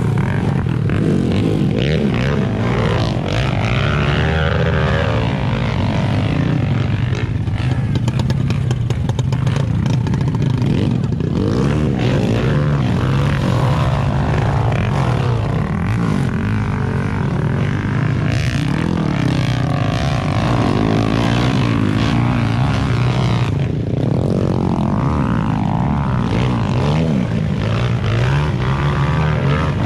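Dirt bike engine running on a trail ride, its revs rising and falling.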